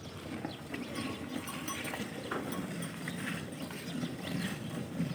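Banni buffalo being hand-milked: short, irregular squirts of milk into a pail, over faint shuffling of the animal.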